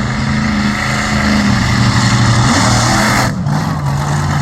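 Stunt truck's engine running hard under full throttle as it accelerates for a ramp jump, its pitch shifting, with a brief drop about three seconds in.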